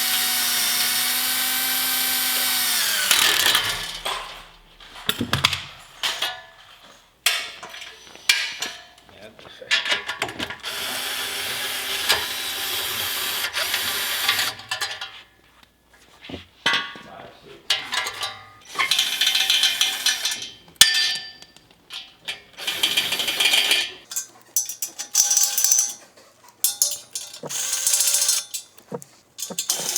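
Handheld power tool, a drill or driver, running in bursts while parts come off a sprint car engine. The first run is a steady whine that winds down in pitch as it stops, a second long run comes about ten seconds in, and shorter bursts and clatter of shop work follow.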